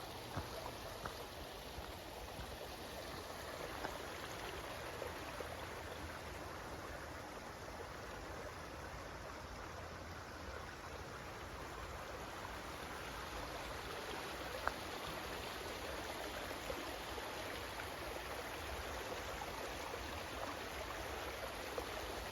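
Creek water running steadily, a constant rushing, with a few faint clicks and one sharper click about two-thirds of the way through.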